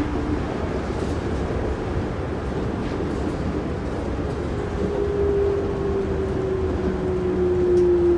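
Yurikamome driverless rubber-tyred train running along its elevated guideway, heard from inside the front car: a steady rumble of the running gear. About halfway through a whine sets in and falls slowly in pitch as the train slows approaching a station.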